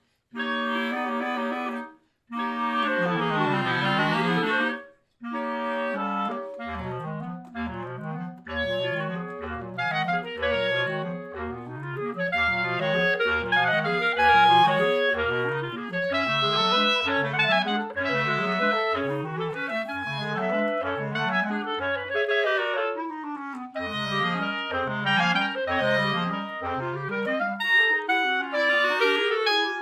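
Clarinet quartet playing contemporary classical chamber music. It opens with held chords broken by short pauses, one swelling in the middle, then settles after about six seconds into a repeating low figure, about a note every half second, under faster moving upper parts.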